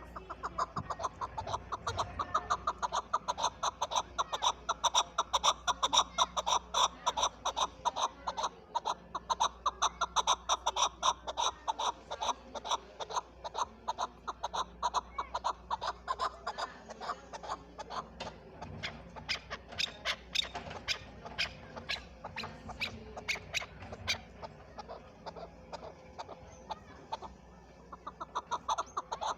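Chukar partridge calling: a long, rapid series of short repeated notes, several a second, that thins out near the end.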